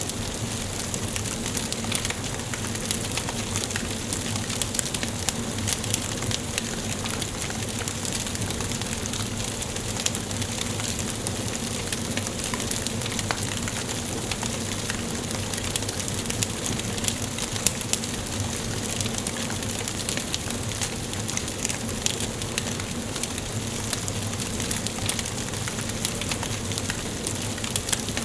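Wood fire crackling in a fireplace: a steady hiss dotted with frequent sharp pops and crackles.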